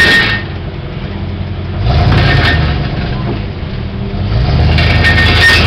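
Truck engine revving in repeated surges, rising and falling about three times as the truck is driven slowly.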